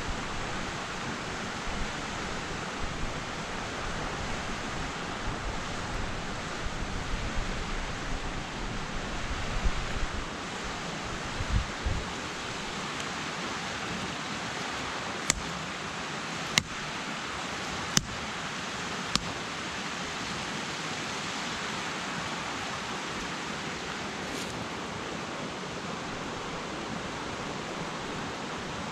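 Steady rushing of water, like a waterfall or fast stream. Low rumbles come and go through the first part, and four sharp clicks sound about a second apart around the middle.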